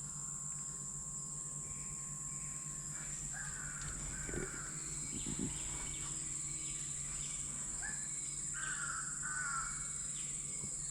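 A bird in the rainforest canopy gives a series of short, crow-like calls, about half a second each and often in pairs, over a steady high-pitched insect drone.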